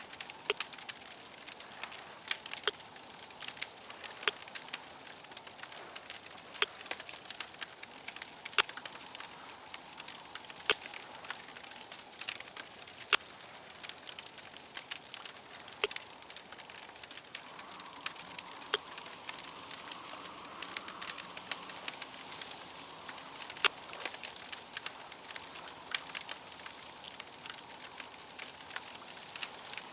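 Crackling fire: irregular sharp pops and snaps, often several a second, over a steady soft hiss.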